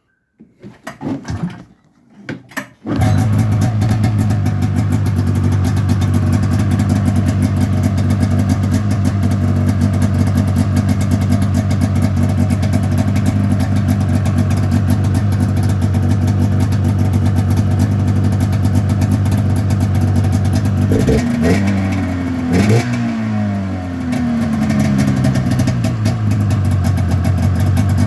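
The freshly swapped-in 500 EFI engine starting: a couple of seconds of uneven cranking, then it catches about three seconds in and idles steadily. About two-thirds of the way through it is blipped a couple of times, the pitch rising and falling, then it settles back to idle.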